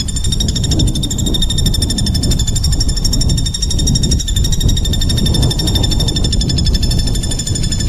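An animal's continuous, rapidly pulsed buzzing trill on one steady pitch with overtones, unbroken throughout, over a heavy low rumble.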